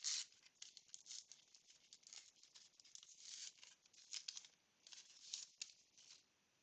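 Faint rustling and crinkling of a baseball card pack wrapper being torn open and the cards handled, a run of small irregular rustles that stop shortly before the end.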